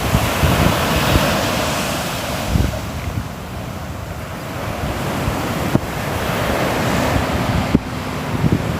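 Sea waves breaking and washing up, loud near the start, easing off, then building again in the second half. Wind buffets the microphone with low thumps.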